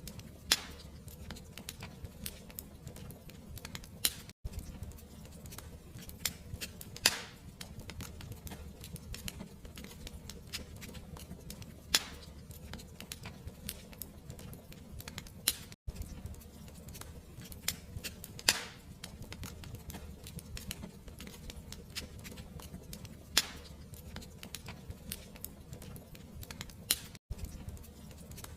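Wood fire crackling in a fireplace: a low steady rumble of flame with irregular small crackles and a louder pop every few seconds. The sound cuts out for an instant three times, about eleven seconds apart.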